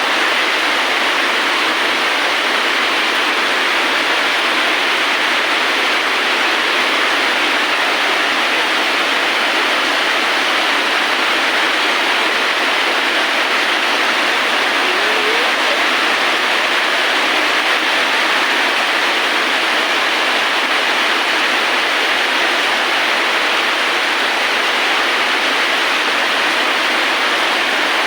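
Steady, even rain, a constant hiss that does not change. A faint short rising chirp comes about halfway through.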